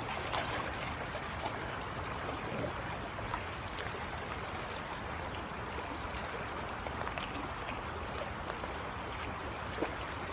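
Creek running high after heavy rain, a steady rush of water over rapids.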